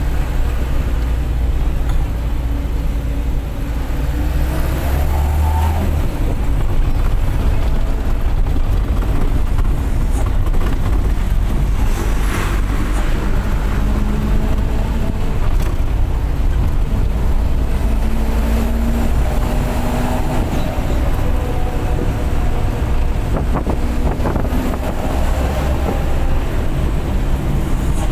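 Mitsubishi bus engine and its aftermarket 'serigala' exhaust running under way, a heavy steady low rumble mixed with road noise. The engine pitch rises and shifts a few times as it pulls.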